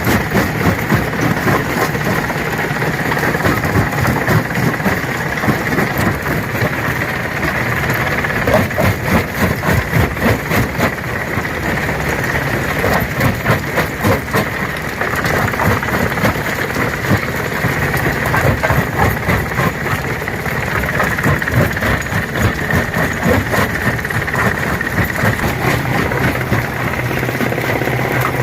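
Stone crusher running under load: rocks crack and rattle continuously over the machine's steady drone.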